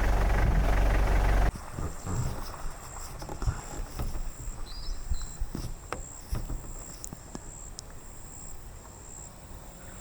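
A vehicle engine rumbles for about a second and a half, then cuts off abruptly. Quieter bush ambience follows: an insect's high, thin trill comes in long pulses, with a few sharp clicks and a brief bird chirp.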